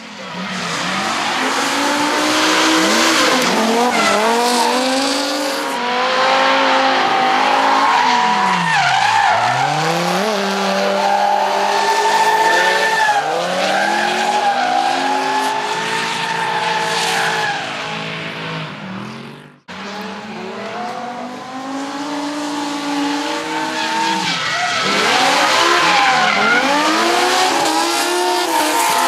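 BMW E46 M3 with the M5's V10 engine revving up and dropping back again and again while drifting, with tyre squeal over it. The engine falls to a deep low twice, and the sound cuts off sharply for an instant about two-thirds through before picking straight back up.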